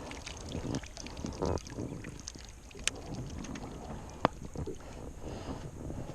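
Wind buffeting the microphone and water lapping around a small fishing boat, with scattered small knocks and two sharp clicks about three and four seconds in.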